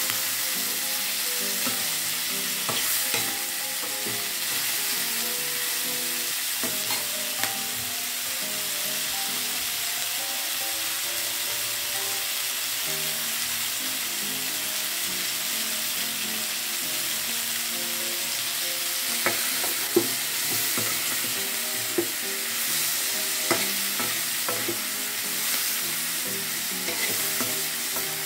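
Green beans, quail eggs and spice paste sizzling as they are stir-fried in a stainless steel pan, with a spatula scraping through them and knocking sharply against the pan several times, most often in the second half.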